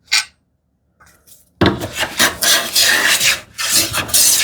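Hand plane shaving wood in quick, repeated strokes, its iron backed out for a light cut, starting about a second and a half in after a single short knock at the start.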